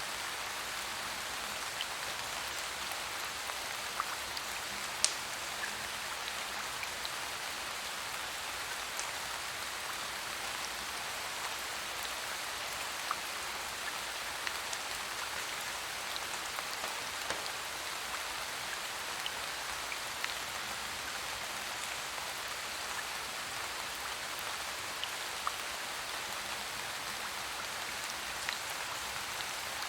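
Steady rain falling, an even hiss with scattered sharp ticks of drops, the loudest about five seconds in.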